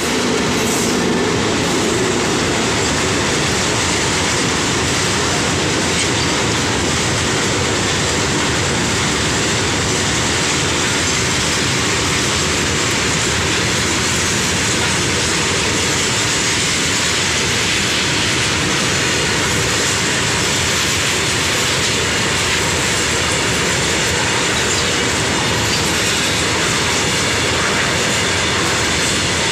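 Indian Railways goods train of covered box wagons passing close by at high speed: a loud, steady rush and rumble of steel wheels on the rails, with the rear of its twin electric locomotives going by in the first second or two.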